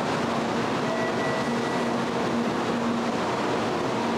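Shinkansen bullet train moving alongside the platform: a steady rumble and rush of the train with a faint hum running through it.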